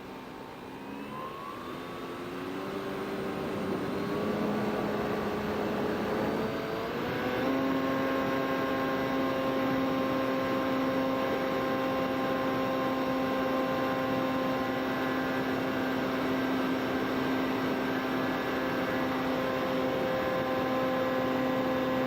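FPV drone's electric motors whining, the pitch rising over the first several seconds as the throttle comes up, then holding steady.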